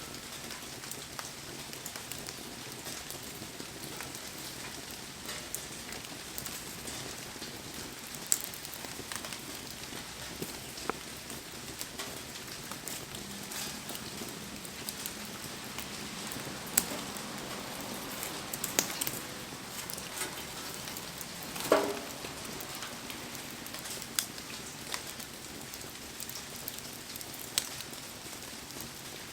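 Heavy rain falling steadily, with a wood campfire crackling through it in scattered sharp pops; one louder crack about three-quarters of the way through.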